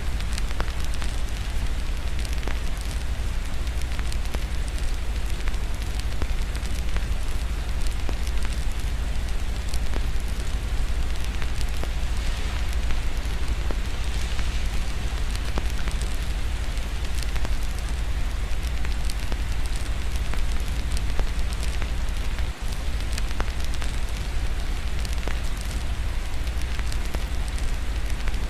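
Wood fire crackling with scattered sharp pops over a steady wash of rain, with a constant low rumble underneath.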